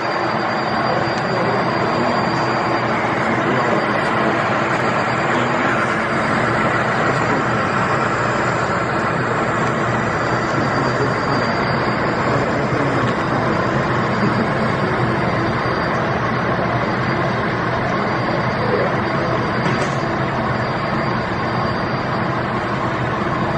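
Moving train: a steady, unbroken rolling rumble.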